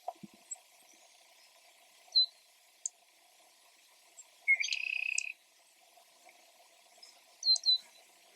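A bird calling: short high chirps, a quick pair near the end, and one buzzy trill lasting just under a second about halfway through.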